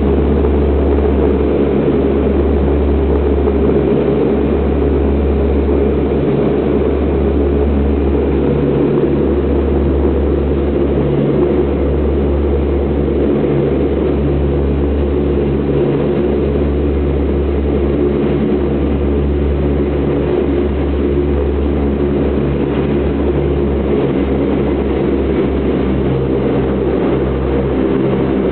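Lockheed C-130 Hercules turboprop engines running with a steady low drone. Only three engines are turning: one has been shut down after a fire warning light.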